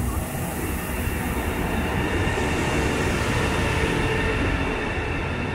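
High-speed electric train pulling slowly into the platform, its carriages rumbling past with a steady high whine over the noise. The sound swells in the first couple of seconds and then holds.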